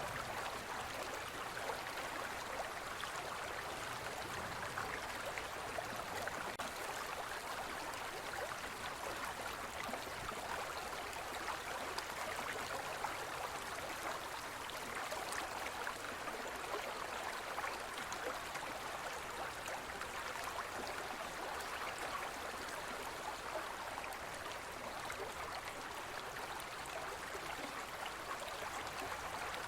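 Forest stream flowing over rocks: a steady, even rush of water with small splashes and burbles throughout.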